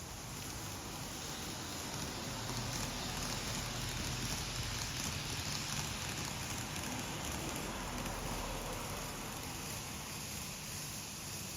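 Odakyu electric train running: a steady hiss of traction motors and wheels on rail over a low hum, swelling slightly a couple of seconds in and easing off near the end.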